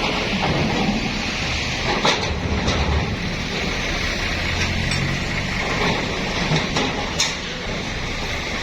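Bus running: steady engine and road noise with a low rumble, broken by a few short knocks and clicks.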